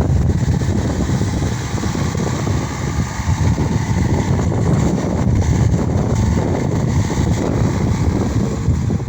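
Case SR 200 skid steer's diesel engine running steadily.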